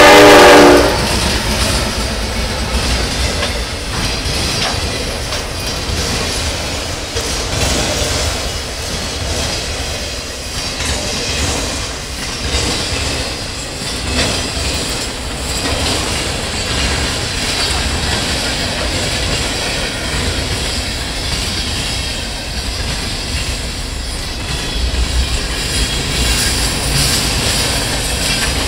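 Norfolk Southern locomotive air horn blowing a loud chord that cuts off about a second in, then the steady rumble of a freight train's autoracks and boxcars rolling past, their wheels clattering over the track and the rail diamond.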